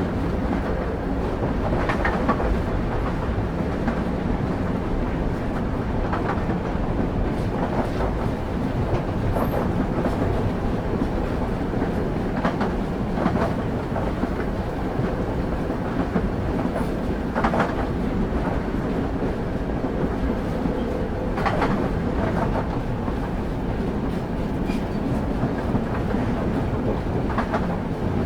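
Steady rumble of a moving train's wheels on the rails as heard on board, with clicks from the wheels passing over rail joints every few seconds.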